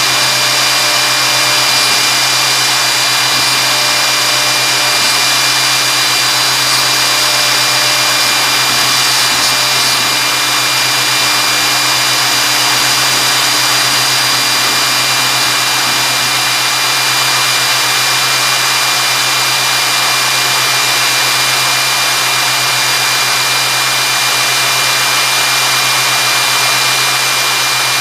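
CNC router running steadily as it engraves 3 mm deep into 6 mm wood: a constant high whine over a loud, even rushing noise.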